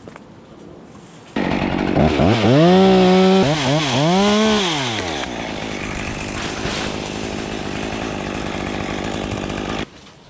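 Chainsaw starts suddenly about a second in, revs up and down twice, then runs steadily at high speed until it cuts off suddenly near the end.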